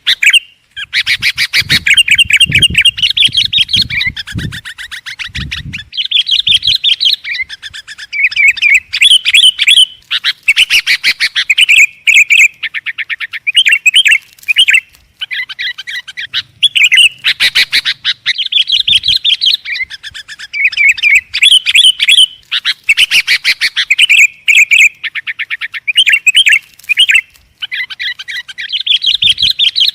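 Sooty-headed bulbul (kutilang) singing loudly and almost without pause: rapid, bright chattering phrases of one to two seconds, one after another with short breaks.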